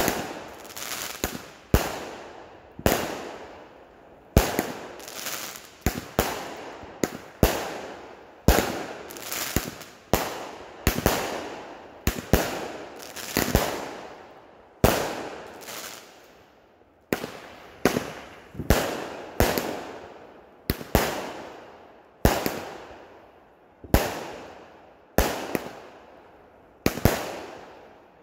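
Consumer firework cake firing shot after shot, about one a second, each a sharp bang followed by a fading crackle as the aerial shells burst overhead.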